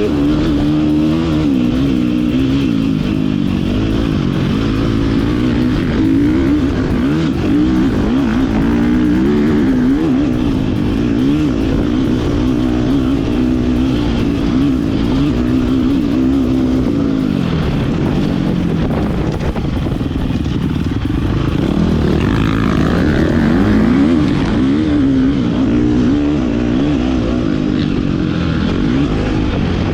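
Motocross dirt bike engine being ridden hard, its pitch climbing and dropping again and again as the throttle is opened and shut and gears change.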